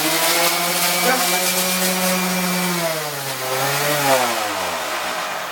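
Electric drill boring a 28 mm entrance hole in a wooden bird-box panel. The motor runs steadily, its pitch sags as the bit bites about three seconds in, and then it winds down near the end.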